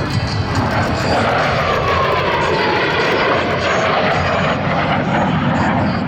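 Blue Angels F/A-18 Hornet jet passing close at an airshow: loud, steady jet engine noise with a whine that falls in pitch as it goes by.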